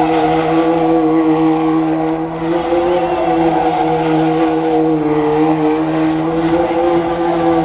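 Car engines held at steady high revs while spinning donuts, over the rush of wheelspinning tyres on pavement.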